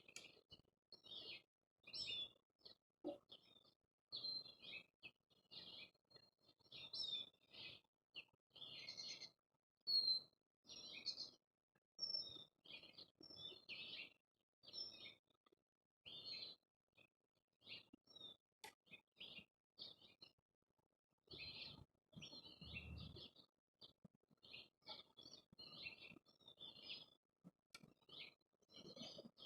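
Small songbirds chirping, many short calls in quick succession, with a short low rumble about two-thirds of the way through.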